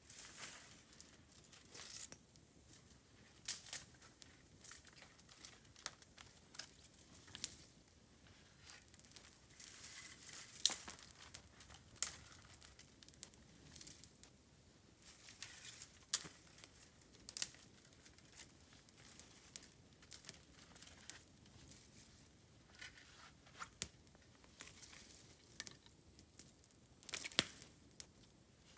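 Dry bamboo crackling and snapping in irregular sharp cracks of varying loudness.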